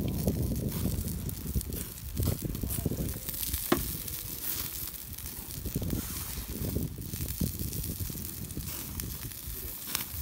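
Wood campfire crackling and hissing, with scattered sharp pops and an uneven low rumble underneath.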